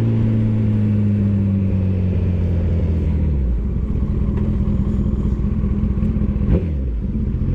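Motorcycle engine of a Kawasaki ZX-14 heard from the bike as it is ridden. The engine note slowly drops over the first few seconds as the bike slows, then runs lower and steady, with a short rise and fall in pitch near the end.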